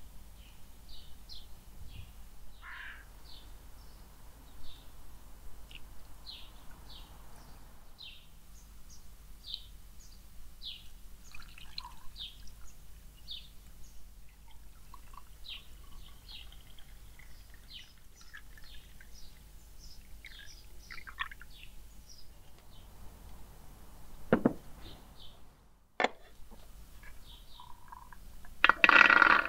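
Small birds chirping in short high calls throughout, with a sharp knock about 24 seconds in and a short loud rush of noise near the end.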